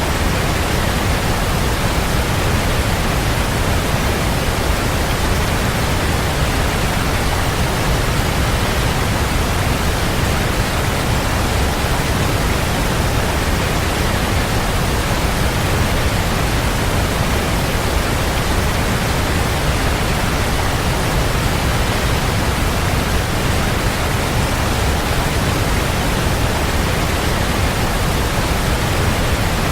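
Waterfall: a steady, even rush of falling water, loudest in the low rumble, with no change throughout.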